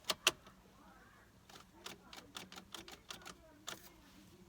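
Sharp clicks from the 2006 Nissan Cube as the key is turned, two at first and then an irregular run of them, with no engine cranking: the car won't start.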